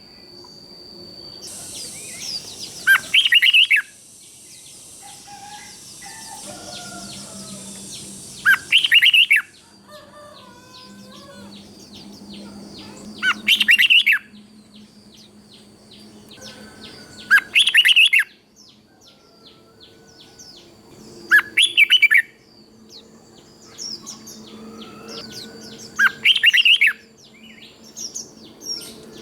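Red-whiskered bulbul singing: six loud, short song phrases, one about every four to five seconds, with fainter chirps between them.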